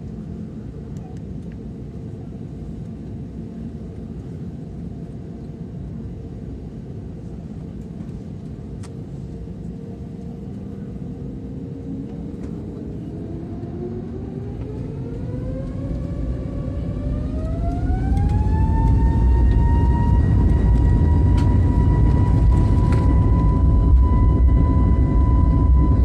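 Airbus A320 jet engines heard from inside the cabin: a steady low rumble, then about halfway through a whine that rises in pitch over several seconds and settles into a steady high tone. The rumble grows louder as the engines spool up to takeoff thrust at the start of the takeoff roll.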